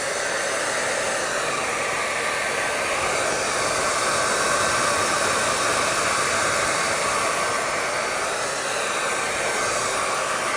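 Hair dryer running continuously: a steady rush of blown air with a faint, steady whine.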